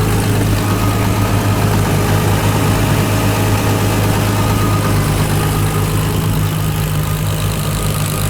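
Nissan RB25 turbocharged straight-six in an S13 240SX drift car idling steadily.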